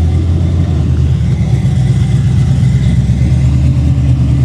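A car pulling out under its own power, its engine a loud low rumble that steps up slightly in pitch just under a second in and then holds steady.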